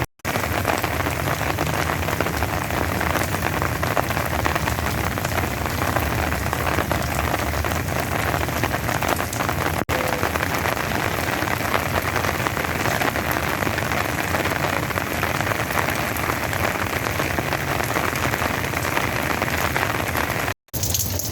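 Steady, continuous rain falling from a tropical depression. The sound drops out for an instant just after the start, once in the middle and again just before the end.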